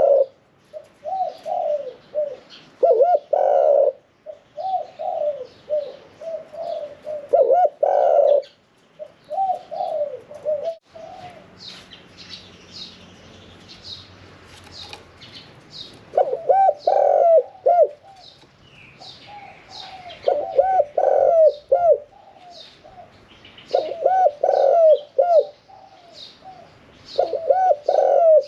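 Spotted dove singing its cooing song, a medium-pitched "khan yon 1 kuk" song type, in short phrases of several coos repeated every few seconds, with a gap of several seconds about halfway through.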